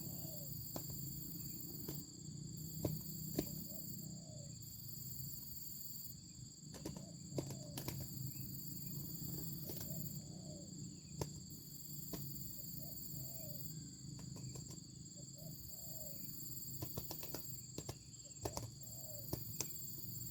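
Insects droning steadily in two high tones, with short low bird calls every second or two and scattered sharp clicks or taps.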